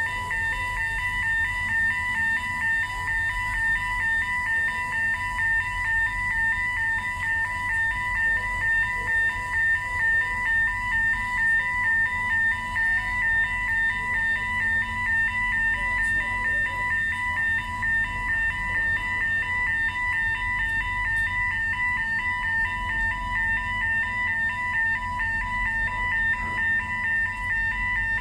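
Warning alarm beeping steadily and repeatedly as the car ferry MV Clansman's bow door closes, over the low rumble of the ship's engines.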